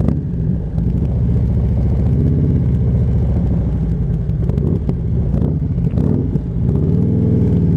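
Motorcycle engine running under way. The engine note rises about two seconds in, dips briefly about six and a half seconds in, then climbs again.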